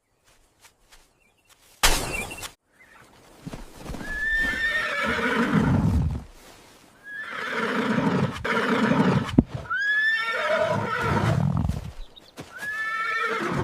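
Four long horse-like whinnies, each opening with a high falling squeal, after a short sharp burst of noise about two seconds in.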